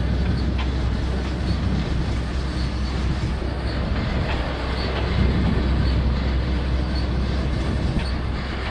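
A large farm tractor's diesel engine running steadily at work, a deep constant hum under a loud, even mechanical rumble, with faint regular ticking on top.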